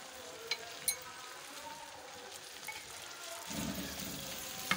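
Chopped okra sizzling steadily in hot oil in a kadai, with two sharp clicks in the first second. A wooden spatula starts stirring the okra about three and a half seconds in.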